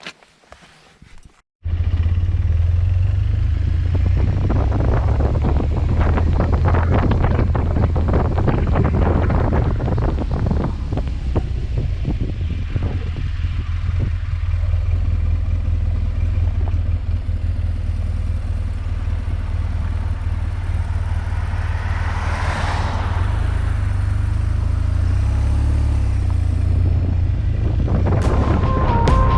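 BMW R1200GS boxer-twin motorcycle riding at speed: steady engine and wind noise on the onboard microphone, starting suddenly about a second and a half in. There is a brief swell in the noise about two-thirds of the way through.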